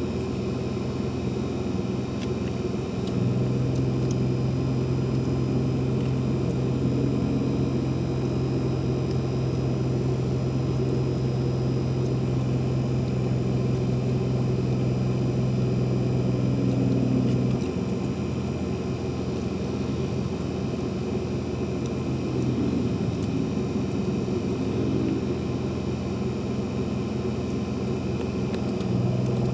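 A steady low mechanical hum. A deeper, stronger tone cuts in about three seconds in, stops abruptly around eighteen seconds, and comes back near the end.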